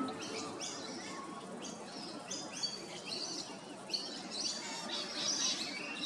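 Songbirds chirping in the open, short high notes repeated every half second or so and growing busier toward the end.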